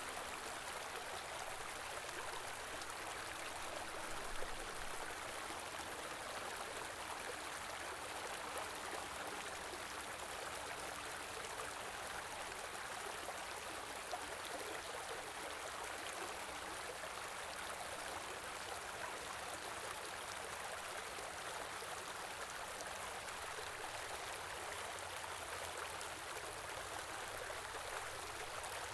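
Stream of running water, a steady rushing and gurgling flow with no letup.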